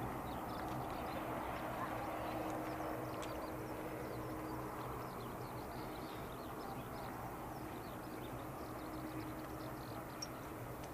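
Steady distant aircraft and airport rumble with a low hum, while small birds chirp over it.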